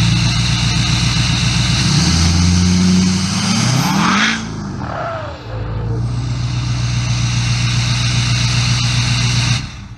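Chevy Duramax V8 turbodiesel running after a cold start. About two seconds in it is revved, pitch climbing higher before falling back to a steady idle, and it stops abruptly near the end.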